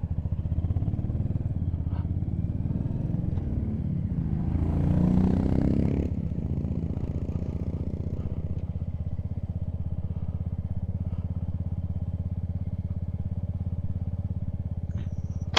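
Motorcycle engine idling with a steady, even beat; from about four to six seconds in, a louder engine swells and rises in pitch as another motorcycle pulls away past it.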